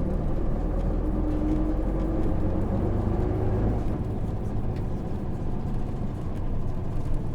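Running sound of a 2005 Hino PJ-KV234L1 city bus with a 6HK1 diesel engine and five-speed automated manual gearbox, heard from inside the passenger cabin: a steady low engine drone.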